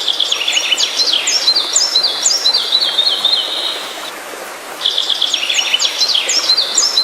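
Birdsong: a songbird singing rapid runs of high, short, falling chirps, breaking off briefly about four seconds in and starting again, over a steady outdoor background hiss.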